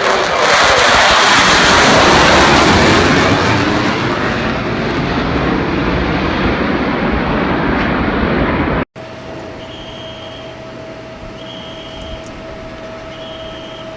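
Fighter jet engine noise, loud and dense with sweeping changes in pitch as the jet passes. It is loudest about two seconds in and eases off gradually. About nine seconds in it cuts off abruptly to a much quieter steady hum with a held tone and a short high beep repeating about every two seconds.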